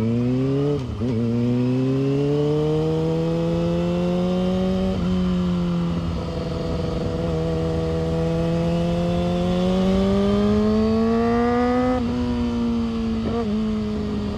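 Yamaha R6's inline-four engine and exhaust running under way, its pitch climbing slowly as the revs build, with a few brief dips and catches in between.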